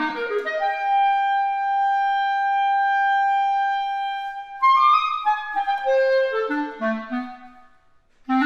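Solo clarinet playing: a quick rising run into a long held note, then a falling passage of short notes down into the low register. After a brief pause near the end, another rising run begins.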